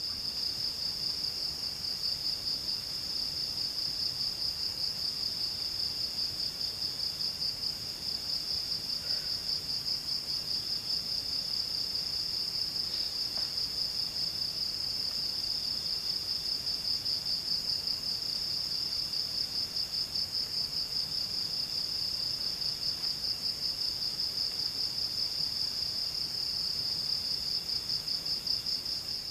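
Insects trilling steadily in a high pitch with a fast, even pulse. A second, somewhat lower insect trill comes and goes in short spells.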